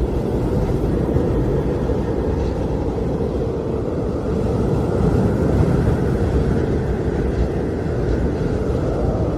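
Blizzard wind blowing steadily, a deep even rush that swells a little about halfway through.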